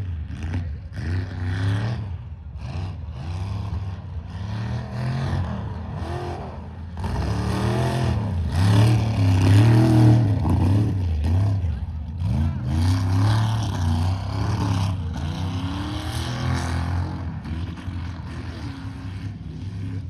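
Mega truck engine revving hard, the revs rising and falling again and again, loudest about eight to eleven seconds in.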